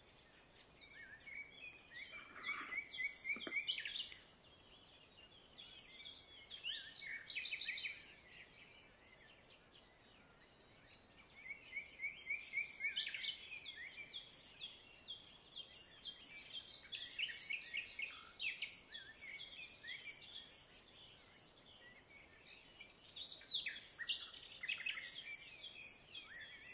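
Songbirds singing quick chirping and trilling phrases in four bouts, with short quiet gaps between them.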